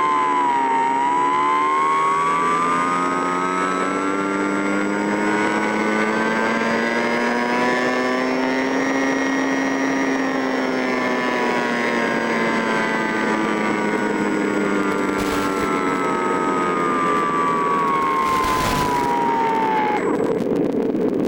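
An engine running steadily, its pitch rising slowly to a peak about halfway through and then falling again, before the note changes abruptly to a rougher sound near the end. Brief gusts of noise cut in twice in the later part.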